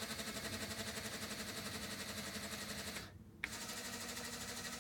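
Small electric motor driving the lift gearing of a Meccano model forklift, a steady whirr with a fast, even flutter. It stops about three seconds in, then after a click starts again at a slightly higher pitch.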